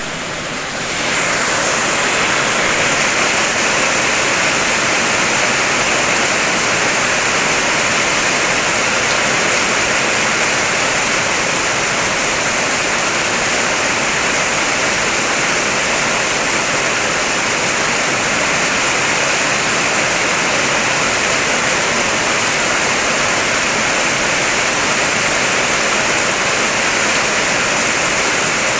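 Heavy rain drumming steadily on a car, heard from inside the vehicle as a dense even hiss. It swells up over the first second or two and then holds steady.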